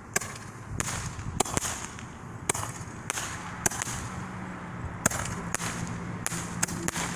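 Handheld Roman candle with report effects going off: a string of sharp cracks, roughly two a second, each followed by a short hiss.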